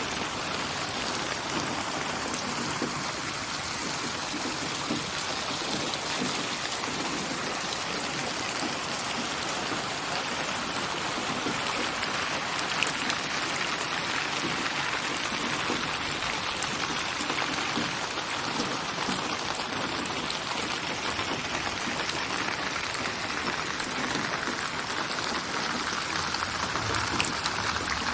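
Steady rain falling, a continuous patter of drops on a surface.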